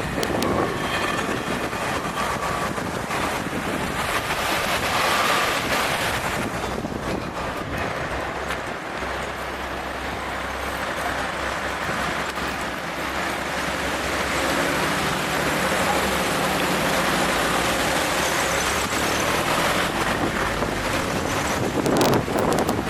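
Steady rushing noise, with a low, even motor hum through the middle part.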